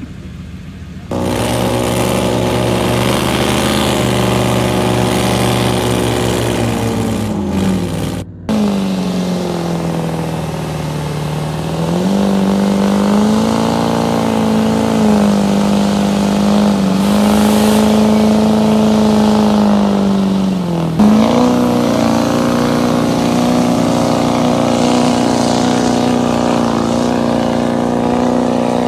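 A '97 Ford pull truck's engine held at high revs, starting loud about a second in. The pitch sags and recovers several times under load, with a brief break about eight seconds in. It steps up to a steady high note near the end.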